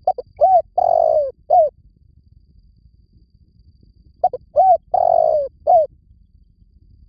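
Spotted dove cooing: two song phrases about four seconds apart, each a few short coos, a longer rolling coo and a closing coo. It is a lure call of the kind used to draw in wild doves.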